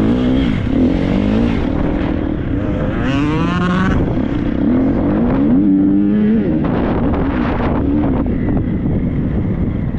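Triumph 250 motocross bike's single-cylinder four-stroke engine revving up and down over and over under changing throttle, its pitch climbing and dropping several times.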